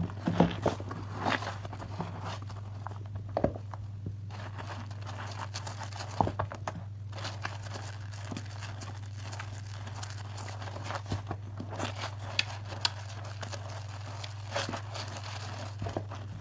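Hands squeezing and working wet soap lather and foam: irregular soft crackles and squishes, busiest near the start and toward the end, over a steady low hum.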